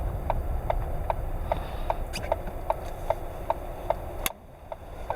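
Car turn-signal indicator ticking steadily, about four clicks a second, over the low rumble of the car. A sharp click comes near the end, and the sound then goes quieter.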